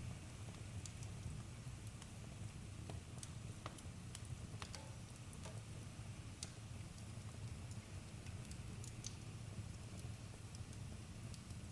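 Wood campfire crackling faintly: scattered sharp pops and snaps over a steady low rumble.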